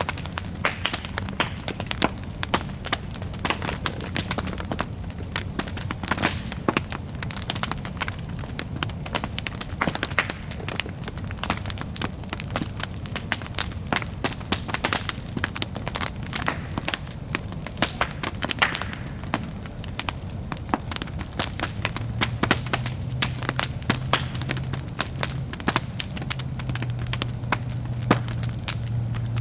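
Bonfire crackling and popping with dense, irregular sharp snaps. A low steady hum joins about two-thirds of the way through.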